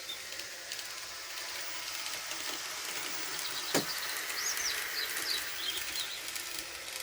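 A few bird chirps over a steady hiss, with one sharp click about four seconds in.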